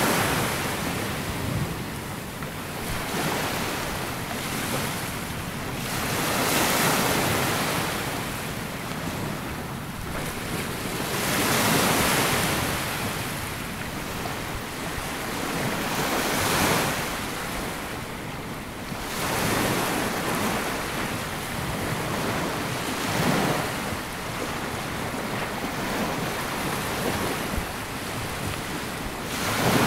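Small sea waves washing onto a sandy beach, each breaking in a soft swell of surf every four to six seconds, with wind noise on the microphone.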